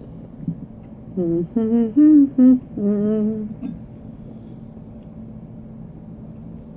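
A woman humming a quick run of about five short 'mmm' sounds with wavering pitch while eating, a sign that she is enjoying the food.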